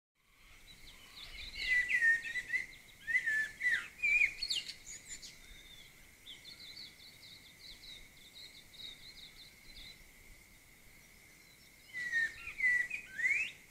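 Wild birds calling: loud chirping, gliding calls for the first few seconds and again near the end, with a run of quick high chirps in between. A thin steady high tone runs underneath.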